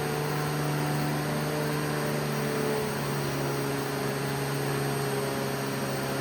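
Upright household vacuum cleaner running steadily: a constant motor hum under an even rush of air.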